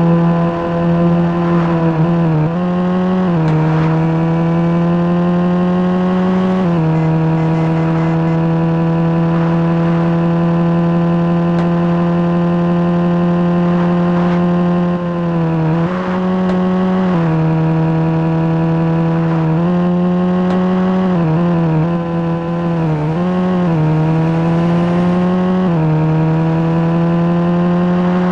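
Engine exhaust note held at steady high revs, with a strong, even drone; the pitch dips briefly and climbs back a few times, about two seconds in, around fifteen seconds in and again between about twenty-one and twenty-five seconds.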